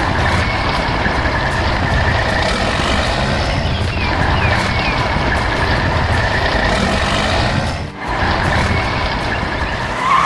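Heavy construction machinery engines running steadily, with a brief drop in level about eight seconds in.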